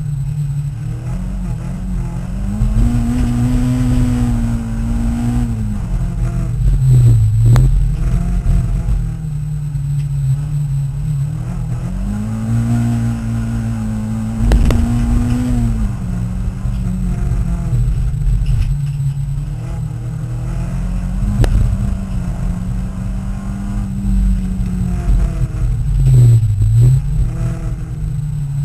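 Peugeot 306 racing car's four-cylinder engine heard from inside the cabin, revving hard, climbing in pitch and dropping again every several seconds as the driver works through the gears and lifts for corners. A few sharp knocks cut through.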